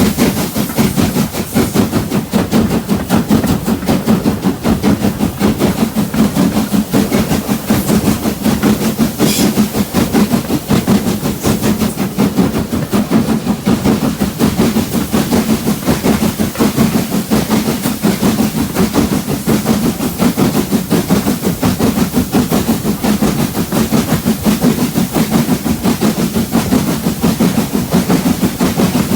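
A heritage railway train running steadily along the line, with a fast, even clatter of wheels and running gear.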